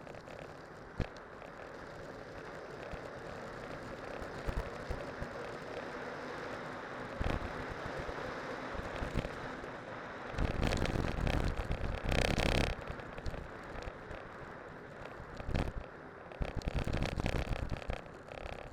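Cyclocross bike on spiked winter tyres rolling downhill over snow and ice: a steady rolling and crunching noise mixed with wind on the microphone, with scattered knocks and a louder, rougher stretch about ten seconds in.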